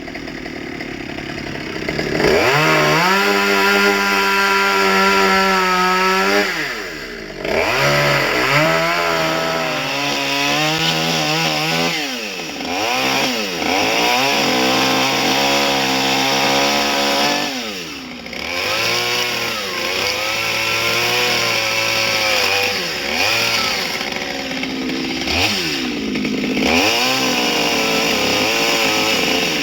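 Chainsaw cutting into wood for carving, the engine revving up under throttle and dropping back several times.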